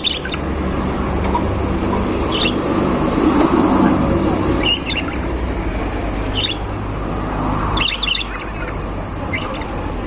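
Caged budgerigars giving a handful of short chirps a second or two apart, over a steady low background rumble.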